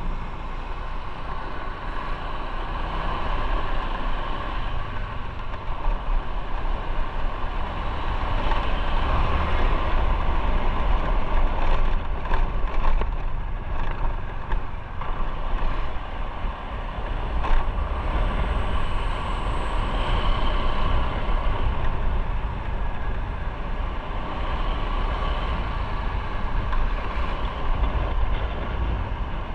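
Motorcycle under way on the road: a steady rush of wind and road noise with the engine's low rumble beneath, swelling and easing in loudness as the bike moves.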